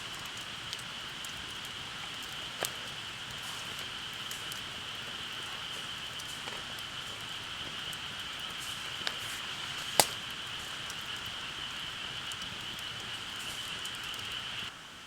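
Wood campfire crackling, with a few sharp pops, the loudest about ten seconds in, over a steady high hiss. The sound drops away abruptly just before the end.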